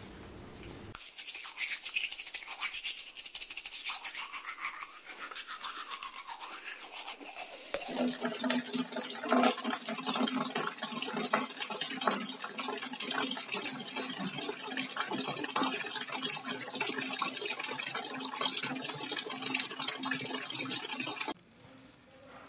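Brisk scrubbing strokes, then water running from a wall tap and splashing over hands and forearms being washed for ablution. The water cuts off suddenly near the end.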